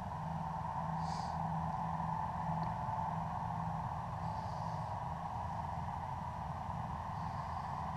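Farm tractor engine running steadily, a low drone with a hum above it. Faint short high chirps come about every three seconds.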